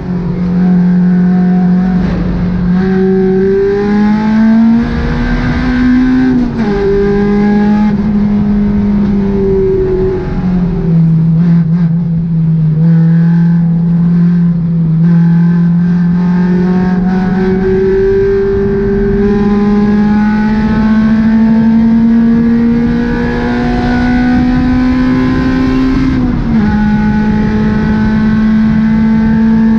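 Track car's engine pulling hard, heard from inside the stripped, caged cabin over wind and road noise. The revs climb slowly and drop suddenly a few times, once about six seconds in and again near the end.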